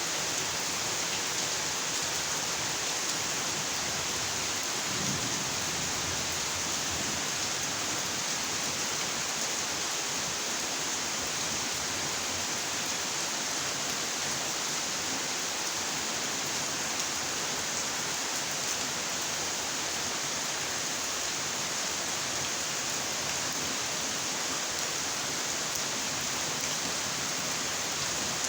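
Steady rainfall: an even, unbroken hiss of rain that neither swells nor pauses.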